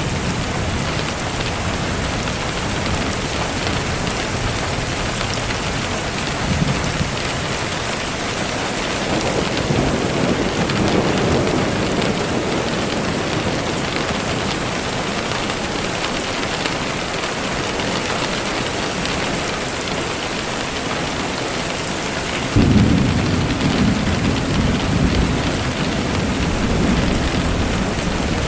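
Steady rain falling, with rolling thunder: a low rumble swells about ten seconds in, and a louder peal breaks suddenly about two-thirds of the way through and rumbles away over several seconds.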